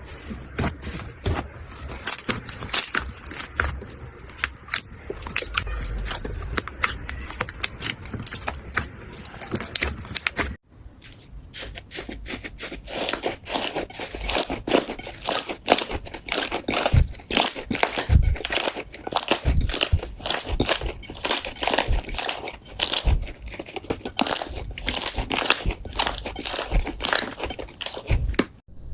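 Slime being squished and worked, giving dense, irregular crackling and popping clicks. The sound breaks off about ten seconds in and starts again straight away with a louder run of pops.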